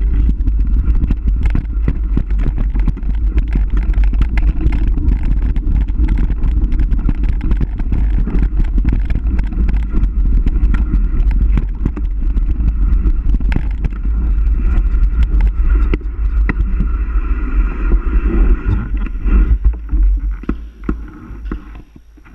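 Wind buffeting a moving camera's microphone as a deep rumble, mixed with constant rattling knocks from riding down rough ground; it dies away in the last couple of seconds.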